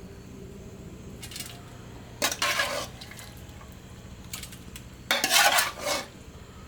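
A metal utensil scraping and clinking against a cooking pot, in two loud scrapes of under a second each, with a fainter one before them.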